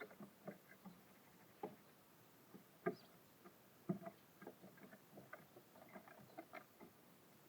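Small birds pecking and scrabbling at a bird feeder: irregular light taps and clicks of beaks on seed and claws on the feeder, with two sharper knocks about three and four seconds in.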